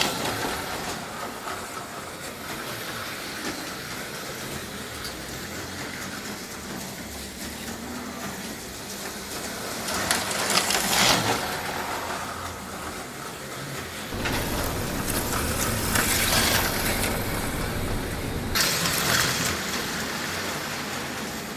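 HO scale slot cars' small electric motors whirring around the track, swelling loudly three times as cars pass close by. A low rumble joins about two-thirds of the way through.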